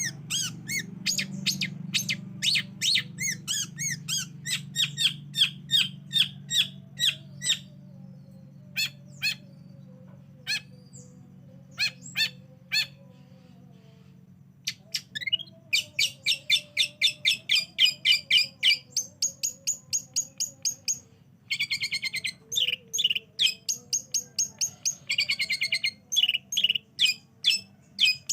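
Long-tailed shrike (cendet) song: long runs of quick, sharp repeated notes, a short lull near the middle, then fast chattering trills in bursts. A faint low hum sits under the first part.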